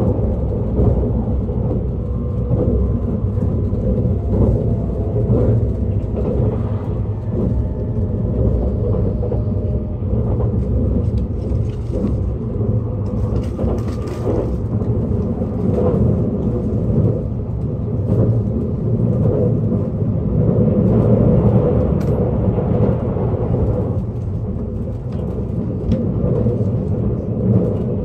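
JR East E657-series electric limited express train running, heard from inside the car: a steady low rumble of wheels on rail and running gear.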